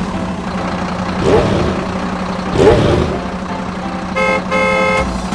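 Toy vehicle sound effects: a steady engine hum, two short rising chirps, then two horn toots near the end, the second one longer.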